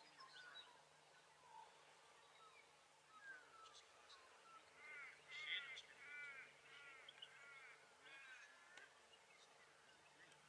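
Faint outdoor birdsong: a bird gives a run of quick, repeated arched chirps, about two a second, through the middle, against a very quiet background.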